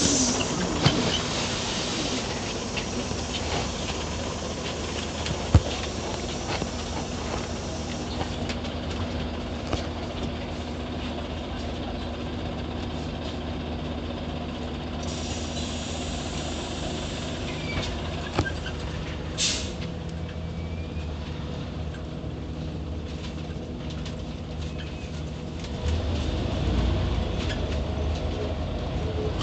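Inside a Scania OmniCity city bus: the engine runs steadily, with a burst of air hiss about halfway through and a short sharp hiss a few seconds later. The low engine noise grows louder near the end.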